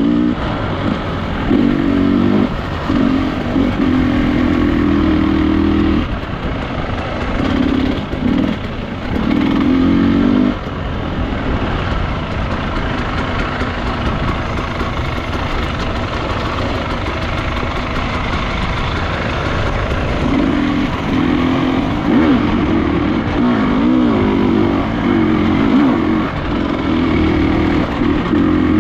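Enduro dirt bike engine running under load, its revs rising and falling, louder in stretches early on and again in the last third, over a steady rush of noise.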